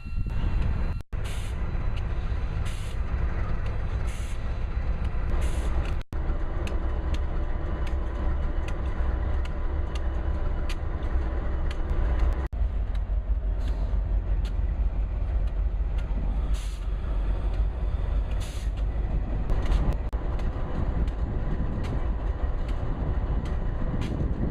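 Heavy freight train with diesel locomotives running, a steady low rumble with scattered clicks and a few short air hisses.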